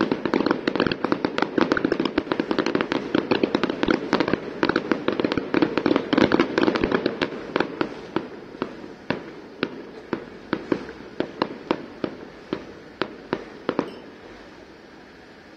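Aerial fireworks exploding: a dense volley of rapid bangs and crackling for about eight seconds, then thinning to single bangs about two a second, which stop shortly before the end.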